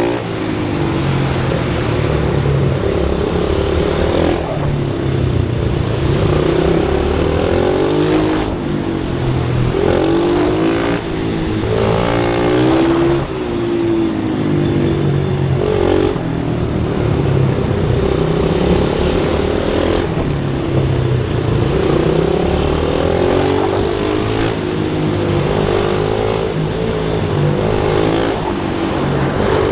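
Pit bike's small single-cylinder engine being ridden hard, its pitch climbing under throttle and dropping back again and again as it accelerates, shifts and slows.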